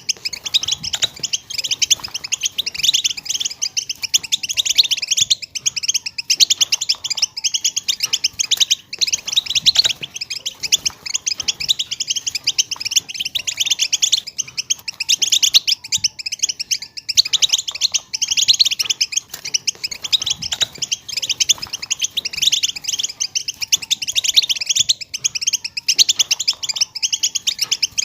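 A group of European goldfinches, females, twittering and chattering in a dense, unbroken stream of rapid high chirps. This is the contact calling that keepers play to rouse male goldfinches into song.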